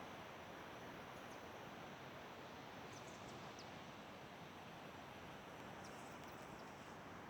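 Faint, steady outdoor ambience: an even rushing hiss with a few brief, faint high chirps scattered through it.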